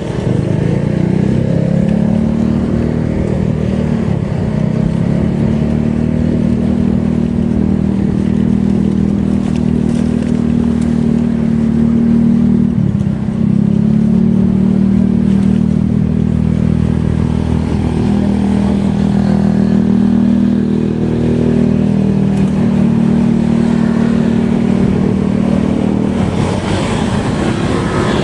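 Motorcycle engine running steadily under way, its pitch rising and falling slightly, with a brief dip about halfway through like a gear change. Rushing noise swells near the end.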